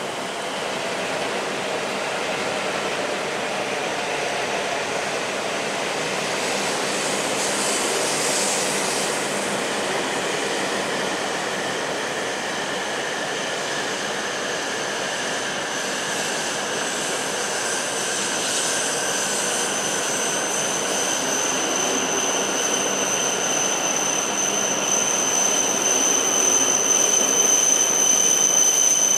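E7 series Shinkansen train rolling slowly along the platform as it brakes to a stop: a steady rolling noise and a slowly falling motor whine, with a high brake squeal that grows louder near the end.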